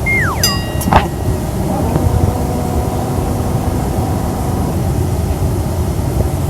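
Steady low rumble of airliner cabin noise, engines and airflow. In the first second a short tone falls in pitch, a brief high ringing tone sounds, and a click comes at about one second.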